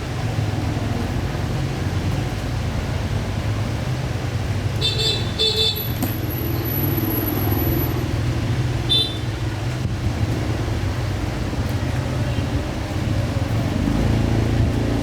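Steady low rumble of traffic or an engine, with short high beeps of a vehicle horn: a pair about five seconds in and one more near nine seconds.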